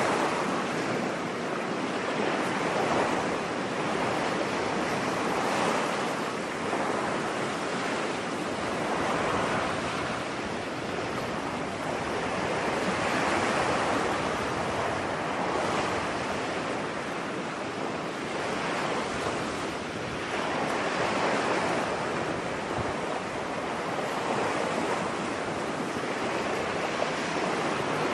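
Ocean surf washing onto a beach: a continuous hiss of breaking waves that swells and recedes every few seconds.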